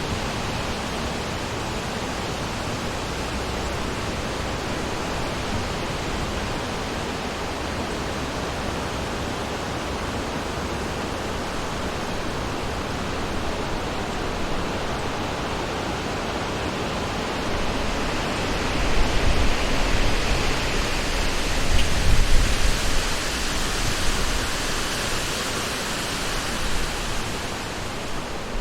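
Summer wind blowing through forest trees, a steady rushing that swells in stronger gusts with a low rumble from about two-thirds of the way in.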